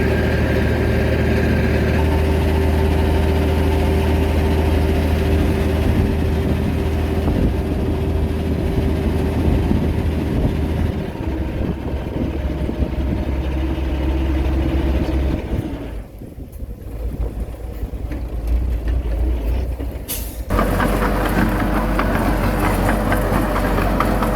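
Diesel engines of heavy earthmoving machinery, a bulldozer and dump truck, running steadily. The sound drops away briefly about two-thirds of the way through, then changes abruptly near the end.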